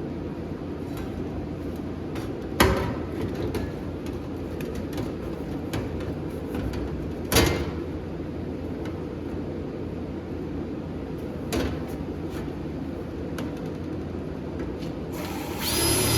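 A few sharp knocks as a sheet-metal patch is handled against the car's firewall, over a steady hum, then near the end a power drill whirs up, driving a self-tapping screw to hold the patch in place.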